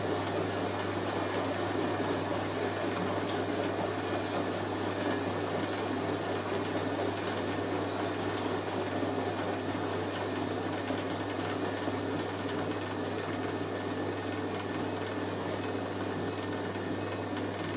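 Hoover A3060 Electronic 1100 front-loading washing machine in its first intermediate spin, running with a steady whir over a constant low hum.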